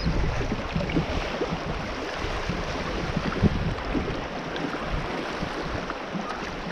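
Steady rushing of fast-flowing river water around a drifting boat, with wind rumbling on the microphone.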